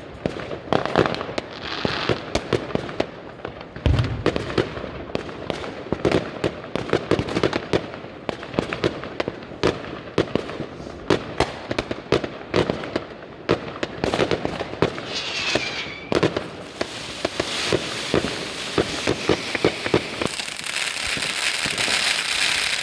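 New Year's fireworks and firecrackers going off in quick succession: many sharp bangs and crackles, with a deep boom about four seconds in. A falling whistle sounds around fifteen seconds in, and near the end a dense crackling hiss builds up.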